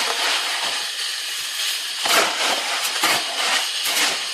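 A trowel stirring and scraping a thick mortar of fine expanded clay and cement, a gritty rasping with several louder strokes; the mix is stiff enough that it does not pour.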